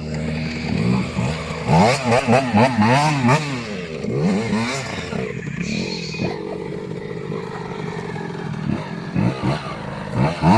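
KTM 85 SX two-stroke dirt bike engine revved in a quick series of blips, pitch swinging up and down, then running steadier before another short burst of revving near the end.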